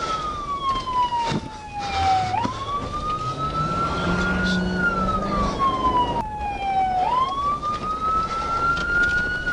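Emergency vehicle siren wailing: a tone that slides slowly down, then sweeps quickly back up, about every five seconds.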